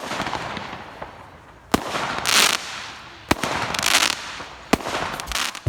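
Fireworks going off: four sharp bangs, about a second and a half apart, two of them followed by a spell of crackling.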